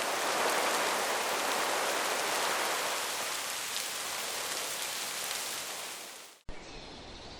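Steady rain falling, an even hiss that fades away about six seconds in. It is then cut off abruptly and replaced by a quieter, thinner hiss of outdoor ambience.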